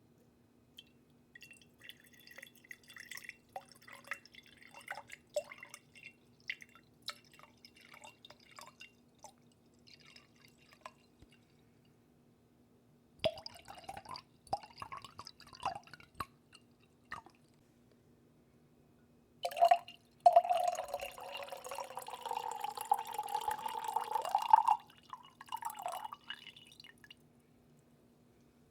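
Water dripping in irregular close-up drops, then a denser run of drops. About two-thirds of the way through comes a longer splashing trickle lasting around five seconds. A faint steady hum sits underneath.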